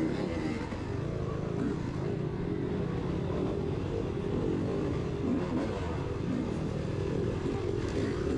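Kawasaki KLX dirt bike's single-cylinder four-stroke engine running under load, the revs rising and falling as it is ridden along a race trail.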